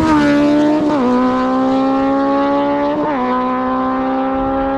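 Sport motorcycle engines at full throttle in a drag-race run, pulling hard and shifting up twice, about a second in and again about three seconds in. Between the shifts the pitch climbs slowly.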